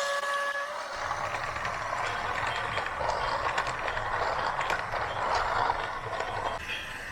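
A steady horn tone cuts off just after the start. It gives way to mechanical whirring and rattling with a low rumble and scattered clicks, as from a radio-controlled backhoe loader at work.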